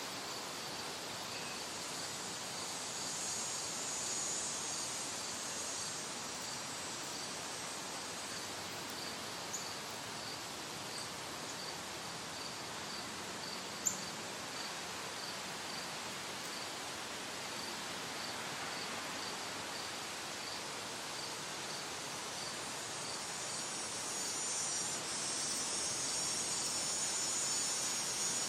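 Outdoor nature ambience: a cricket chirping steadily, about two chirps a second, over an even background hiss. A higher insect buzz swells near the end, and there is a single sharp click about halfway through.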